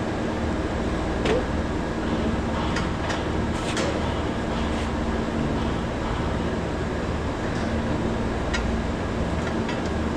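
Steady machinery hum and rumble, with a few sharp clicks of small metal parts being handled.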